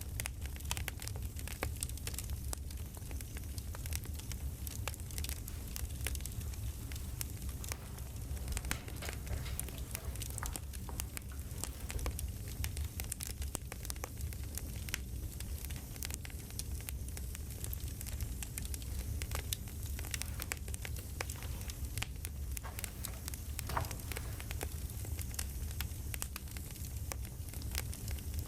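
Crackling campfire: a steady run of irregular pops and snaps over a low rumble of burning wood.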